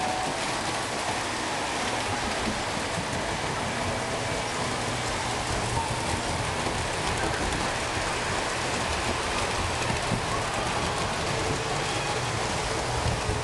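Model trains running on the layout track: a steady whirring clatter of wheels and motors that holds an even level throughout.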